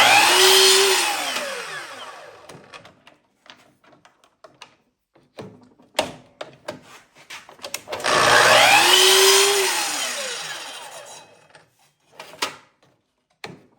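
Miter saw making two cuts through small wood segments. Each time the motor runs at full speed through the cut, then winds down with a falling whine over two or three seconds. The first cut is already under way at the start, the second begins about eight seconds in, and short clicks and knocks from clamping and handling the piece fall between them.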